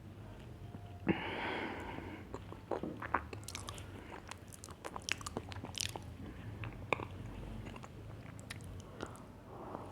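Close-miked biting into a crunchy chocolate cookie about a second in, followed by crunchy chewing with many sharp crackles.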